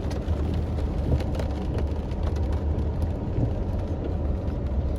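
Chevrolet Suburban driving slowly over a rough dirt road: a steady low rumble of engine and tyres, with scattered light clicks and knocks.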